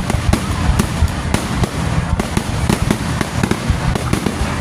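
Fireworks display: a rapid, dense run of bangs and crackles, several a second over a continuous low rumble.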